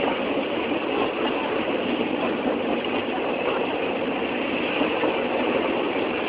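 Steady running noise of a train, an even rumble with no breaks or distinct knocks.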